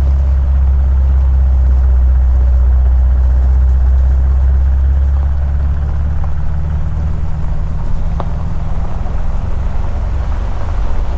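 Steady low rumble of a vehicle under way, with a single faint click about eight seconds in.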